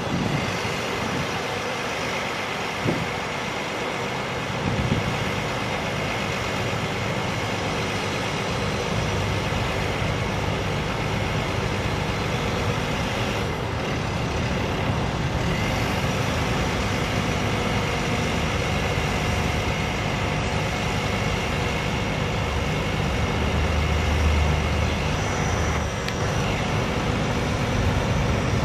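International DT466 diesel engine of a bucket truck running steadily, with a thin steady whine above the engine note. A couple of brief knocks come near the start and about three seconds in.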